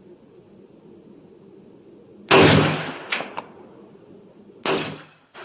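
Two pistol shots about two and a half seconds apart, each a sharp crack with a short ringing tail, the first the louder, with two fainter cracks just after the first.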